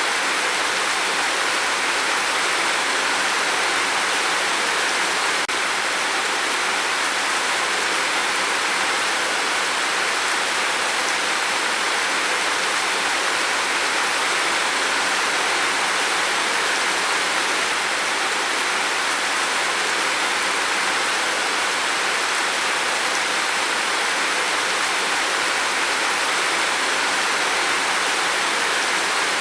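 Heavy rain falling on a roof: a dense, steady hiss.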